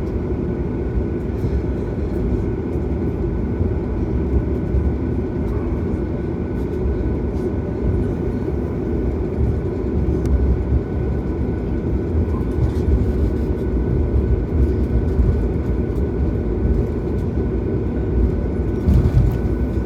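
Cabin noise of a Boeing 737 MAX taxiing: a steady low rumble from the idling CFM LEAP-1B engines and the rolling gear, with a faint steady high tone over it.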